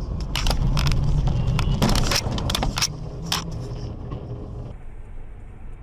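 Car running, a steady low hum, with a string of sharp knocks and rattles in the first three seconds or so. Near the end it changes to a quieter, duller hum.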